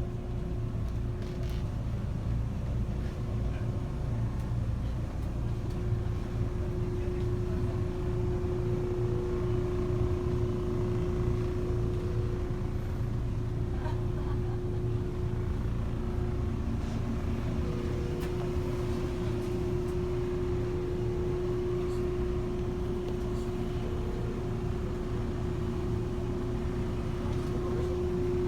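A vehicle running steadily: a constant low rumble with a steady droning tone above it.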